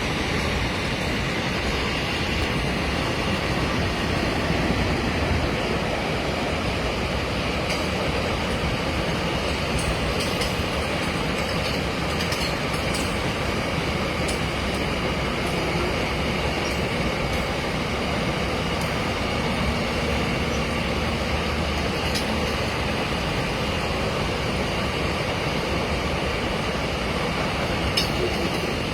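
A long train running past: a steady rumble and rattle of wheels on rail, with a few short sharp clicks here and there.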